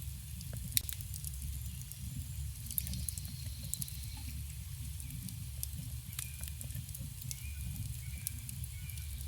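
Campfire burning with a low steady rumble and scattered sharp crackles and pops, one louder pop about a second in. Faint bird calls sound in the background.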